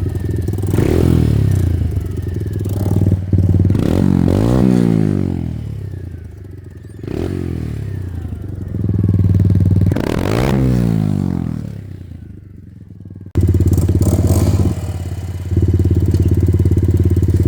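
Straight-piped 125 cc dirt bike engine being ridden, revving up and dropping back again and again, its pitch climbing and falling every few seconds. About three-quarters of the way through the sound cuts abruptly to a louder, steady engine note.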